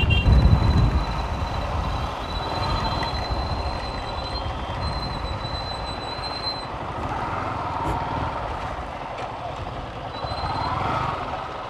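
Yamaha R15 V4's 155 cc single-cylinder engine running at low speed as the motorcycle rolls slowly and pulls up, with a loud low rumble in the first second. A thin high-pitched squeal comes and goes over it.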